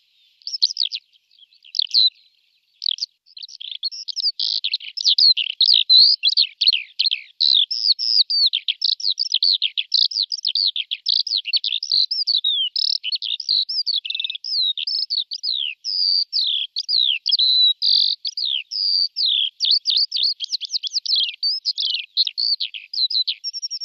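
A songbird singing a fast, unbroken run of short chirps and quick downward-sweeping whistles, pausing briefly about a second in before carrying on.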